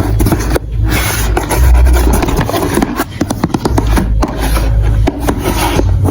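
Marbles rolling and rattling along a plastic marble run track: a continuous rumble with many small clicks.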